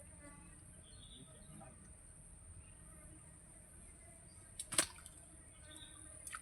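Steady high-pitched insect drone in the background, with a sharp knock about three-quarters of the way in.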